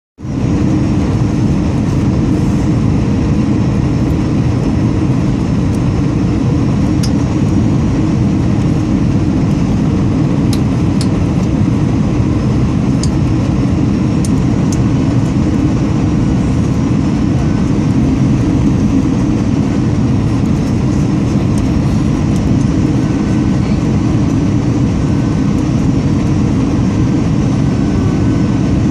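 Steady low cabin noise of an Airbus A320 in flight, the engines and rushing airflow heard from inside the passenger cabin.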